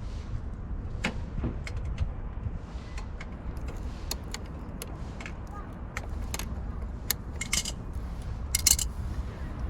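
Scattered light metallic clicks and jingles of small metal objects being handled, with a brighter cluster about seven and a half seconds in and another near the end, over a steady low rumble.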